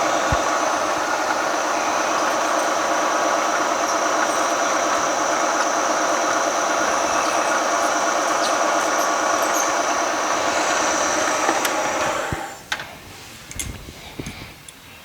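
Milling machine drilling into a hardened steel crankshaft: a steady, loud cutting noise with a constant high whine. It stops about twelve seconds in, followed by a few light metallic knocks.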